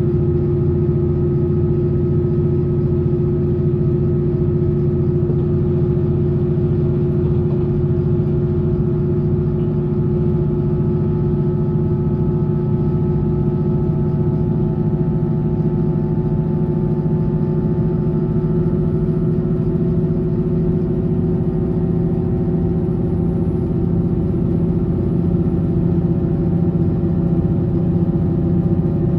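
Passenger train running at an even speed, heard from on board: a continuous low rumble from the wheels and running gear, with several steady tones held throughout.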